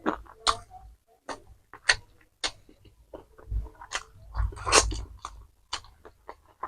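Close-miked chewing of fast food: a run of irregular mouth smacks and clicks, busiest and loudest about four to five seconds in.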